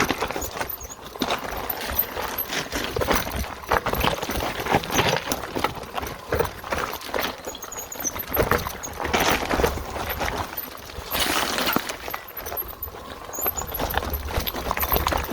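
Mountain bike riding over a rough singletrack trail: tyres crunching on dirt and stones, and the bike rattling with irregular knocks and clatter.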